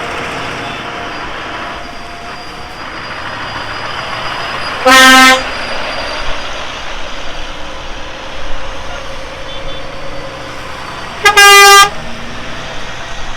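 Two loud vehicle horn blasts over steady engine noise from passing tractors. The first, about five seconds in, is lower and short; the second, near the end, is higher-pitched and a little longer.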